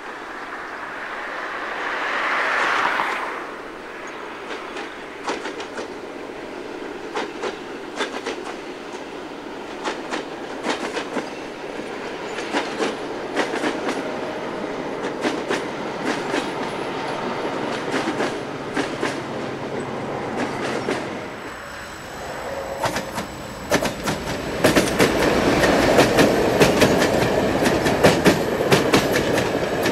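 Diesel multiple unit of the Soviet-era D1 family running past on jointed track, its wheels clicking rhythmically over the rail joints, with a brief swell of noise about two to three seconds in. From about 22 s a second train passes much closer and louder, its wheel clatter dense and rapid.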